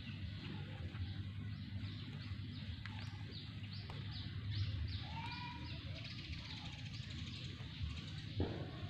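A bird calling in a quick run of repeated high, falling notes, about two a second, for several seconds. A few dull knocks as a hoe digs into soft soil, the loudest near the end, over a low steady rumble.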